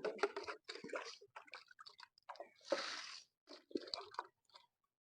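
Water being poured onto soil around young plants in short splashes, about half a second each, among scattered small clicks and knocks of handling.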